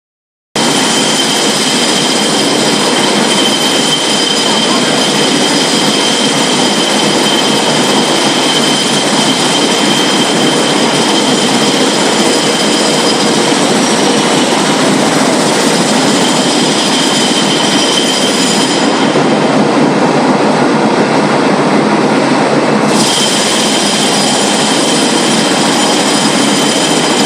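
Large CNC vertical lathe running: a loud, steady mechanical noise with several high, steady whining tones over it. The highest whine drops away for about four seconds in the second half, then returns.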